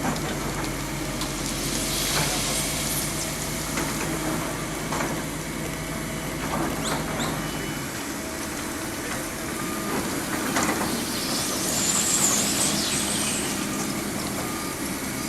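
Heavy vehicle engine running at a roadworks site, its low drone stopping about halfway through, with scattered knocks and a high, wavering squeal near the end.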